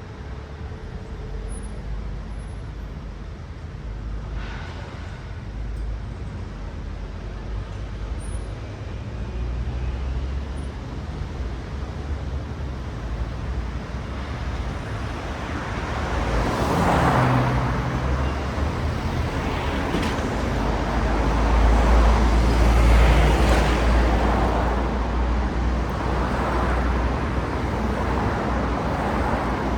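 City road traffic: cars passing one after another, their tyre and engine noise swelling and fading with each pass. It gets busier from about halfway, with a deep engine rumble in the later part.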